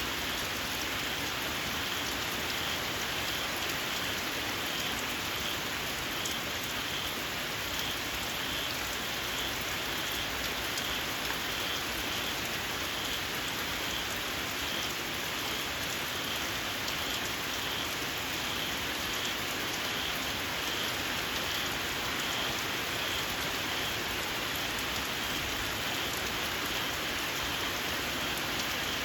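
Steady rain falling on open fields, with small frogs giving an unbroken string of short, evenly repeated high-pitched calls through the rain.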